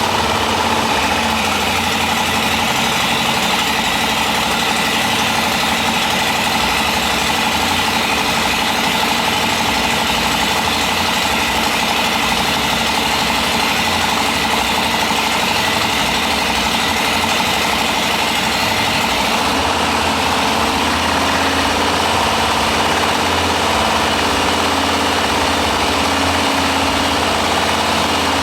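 Harley-Davidson Breakout's stage 1-tuned Milwaukee-Eight 107 V-twin idling steadily just after being started, warming up.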